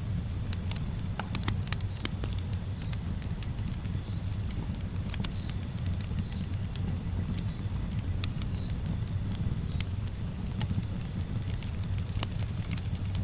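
Bonfire burning, with irregular sharp crackles and pops from the wood over a steady low rumble of flame.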